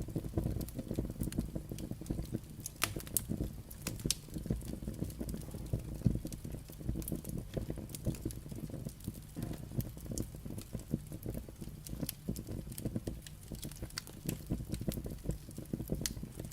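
Firewood burning: a steady, dense crackle of small pops and snaps, with a few sharper cracks standing out, over a low rumble of the fire.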